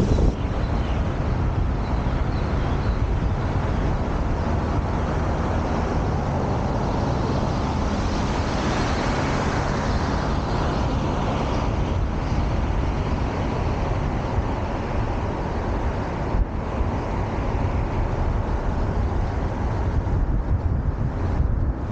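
City street traffic: cars driving past in a steady wash of engine and tyre noise, swelling briefly as one passes close about halfway through.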